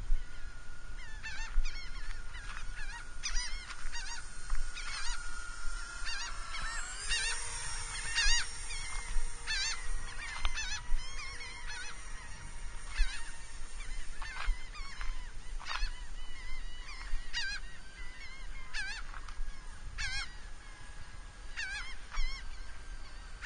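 Birds honking over and over, with the faint steady whine of a Dynam Sky Bus C-47 RC plane's twin electric motors behind them. The motors' pitch rises about seven seconds in.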